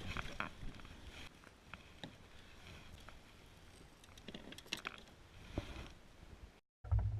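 Scattered light clicks and knocks over a faint hiss. Near the end the sound cuts out for a moment and music with a heavy bass starts.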